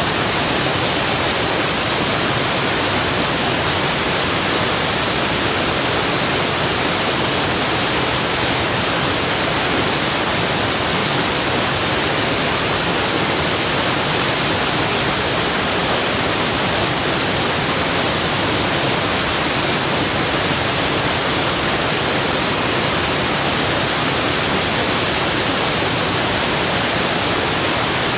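Rushing water from a forest waterfall or river, a steady, even hiss with no change in level.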